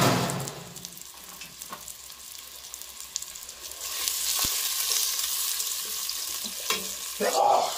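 Sliced shallots, garlic and ginger frying in hot olive oil in a stainless steel pot, sizzling while a wooden spatula stirs and scrapes them around. The sizzle grows louder about halfway through.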